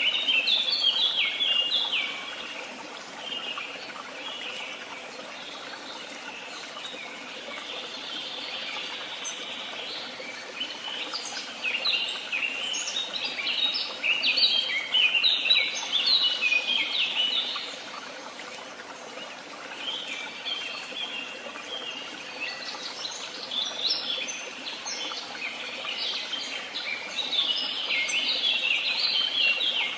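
Woodland songbirds chirping and singing in quick runs of high notes, loudest at the start, in the middle and near the end, over a steady background hiss.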